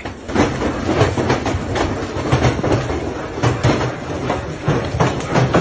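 Large hailstones falling and clattering on hard surfaces: a dense, irregular patter of sharp impacts, several a second, over a steady rushing noise.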